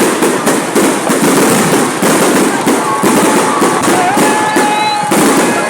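Fireworks display going off continuously: rapid, overlapping bangs and crackle with no pause, among crowd voices.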